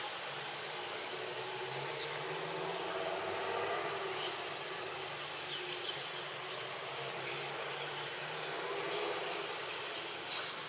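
Insects, crickets or cicadas, chirring in a steady, continuous high-pitched chorus with a fast pulse.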